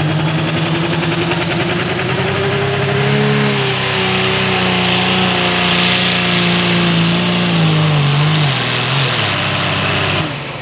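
Turbocharged diesel engine of a Light Limited Super Stock pulling tractor running hard under load down the track, its pitch climbing with a high whine rising alongside. The pitch then holds, sags near the end, and the engine sound drops off sharply about ten seconds in.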